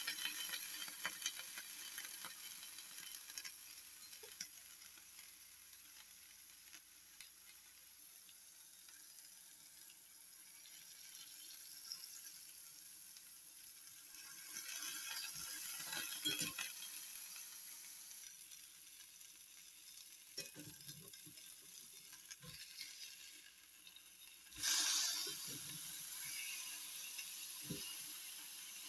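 Ground beef patty and potato sizzling in a hot cast-iron skillet as a steady hiss, with a metal spatula knocking and scraping against the pan a few times. A sudden louder surge of sizzling comes near the end.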